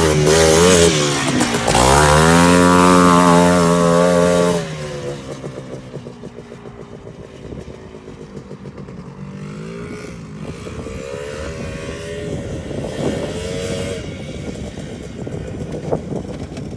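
Quad bike engine revving hard close by: the revs dip, then climb and hold high for a few seconds before the sound drops away abruptly about four and a half seconds in. Afterwards the engine is heard more faintly, revving up and down twice.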